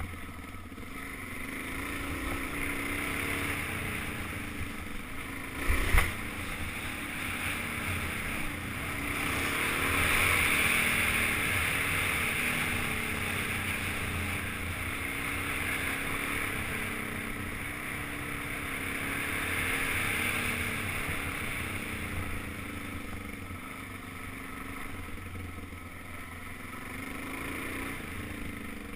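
Suzuki DR-Z400's single-cylinder four-stroke engine running on the move, its pitch rising and falling with the throttle, mixed with wind rushing over the helmet-mounted microphone. A single sharp knock about six seconds in.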